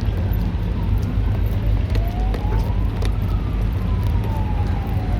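Steady low city-traffic rumble with a siren wailing in the distance, its pitch slowly rising, then falling again.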